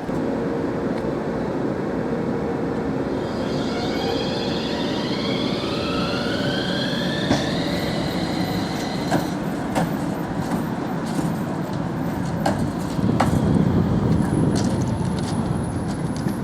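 Man'yōsen tram running on its tracks: a steady rumble of wheels on rail, with the electric traction motors' whine rising in pitch for several seconds as the tram picks up speed. Sharp clicks are scattered through it, and the rumble grows louder near the end.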